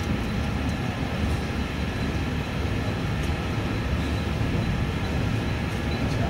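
Passenger train running, a steady, unbroken rumble.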